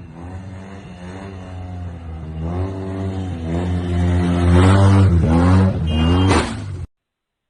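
Car engine accelerating hard, its pitch climbing and dropping back several times as it shifts up through the gears and growing louder. Near the end there is a brief harsh noise, and then the sound cuts off abruptly.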